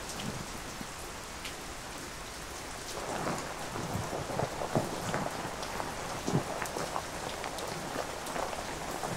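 Steady rain falling, with scattered light knocks and rustles starting about three seconds in from the nylon tent fly and poles being handled.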